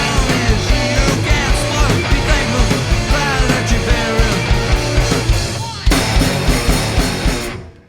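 Live punk-rock band with drums, electric guitars and bass, and a singing voice, playing until a big hit about six seconds in. The band then rings out and fades away at the end.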